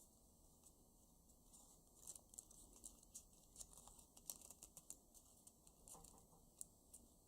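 Faint, crisp ticks and light rustles of a paper banknote being folded and creased by hand, an irregular run of small clicks that is busiest in the middle.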